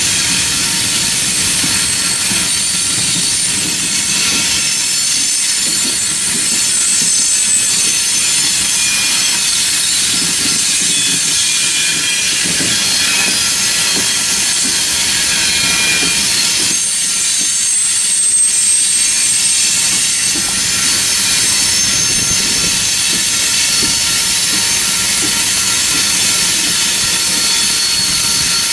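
Coal train's steel-wheeled coal cars rolling past, wheels clattering over the rail joints with a steady high-pitched squeal.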